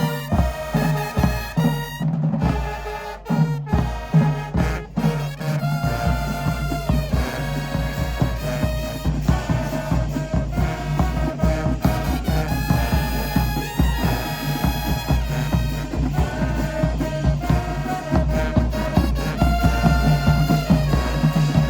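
A band playing brass and drums: a few seconds of percussion hits, then trumpets and trombones come in with sustained chords over the drumline.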